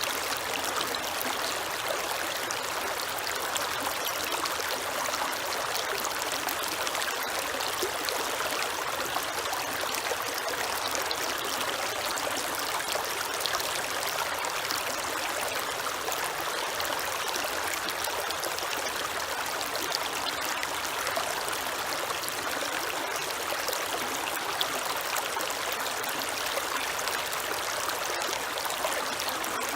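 Creek water flowing and splashing over rocks, a steady rushing babble with fine trickling detail.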